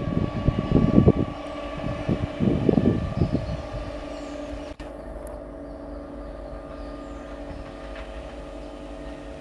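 Electric multiple unit local train approaching: a loud, uneven low rumble for the first three seconds or so, then a quieter steady hum with several held tones.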